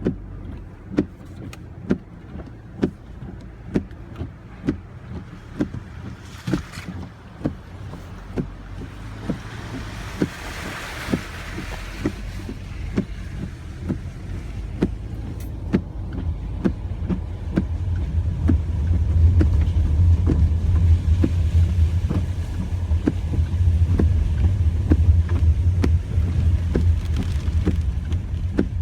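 Car driving, heard from inside the cabin, with a regular tick about once a second. A brief hiss comes about ten seconds in, and the low engine and road rumble grows much louder from about halfway as the car picks up speed.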